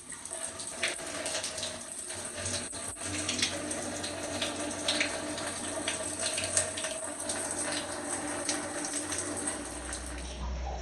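Shower water running and spraying through a broccoli fitted as a shower head, with a steady rush and irregular spattering.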